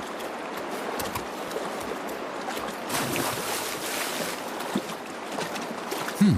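Stream water rushing and splashing as a black bear cub lunges after salmon in the shallows, the splashing loudest about three to four and a half seconds in.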